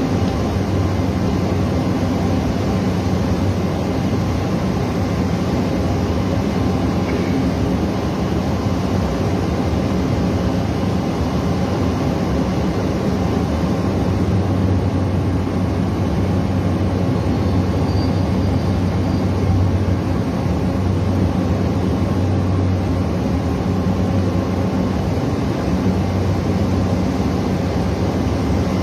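Passenger aircraft cabin in flight: a steady drone of engines and rushing air with a low hum underneath.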